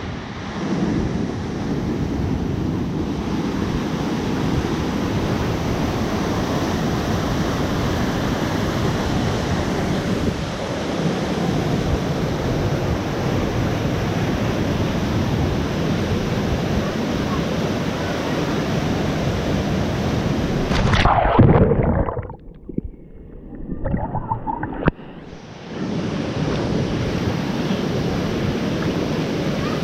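Waterfall rushing steadily. About 21 seconds in there is a brief louder burst, then the sound drops much quieter for about three seconds before the rush returns.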